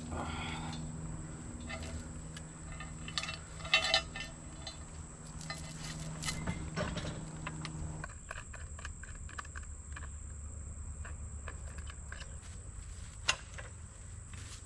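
An engine idling steadily, then cutting off about eight seconds in. Metal clinks and knocks sound over it, the loudest about four seconds in and one sharp knock near the end.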